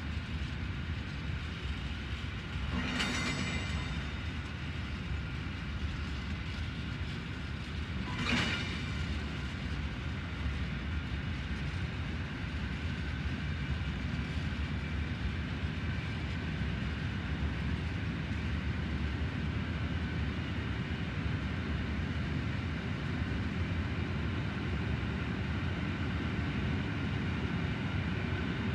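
Freight train of intermodal wagons carrying semi-trailers rolling past at a steady speed: a continuous rumble of steel wheels on the rails, with two brief sharp noises about three seconds in and again about eight seconds in.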